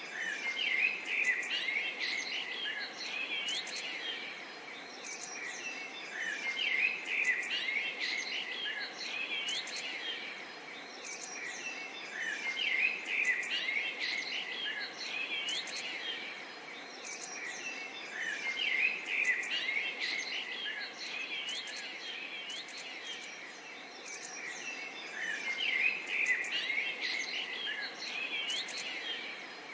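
Several small birds chirping and twittering over a steady faint background hiss. The birdsong swells into louder bursts about every six seconds.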